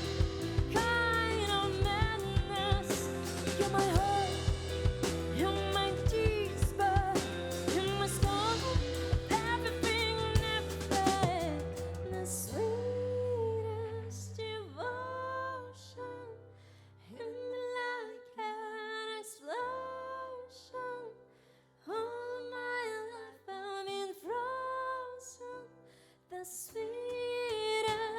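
Live band playing music without recognisable lyrics: full band with drum kit for about the first twelve seconds, then the drums drop out, leaving sparse held keyboard chords over bass notes.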